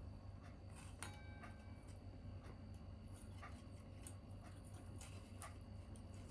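Faint crackling of a small tabletop wood fire, with sharp irregular pops, one about a second in with a brief metallic ring. Behind it, an even tick about once a second like a clock.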